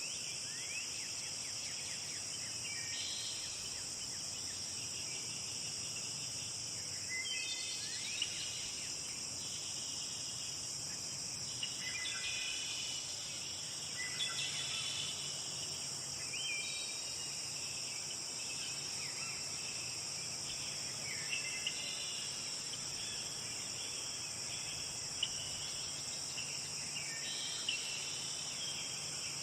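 Steady high-pitched insect chorus, like crickets, with birds singing short chirping phrases every few seconds over it.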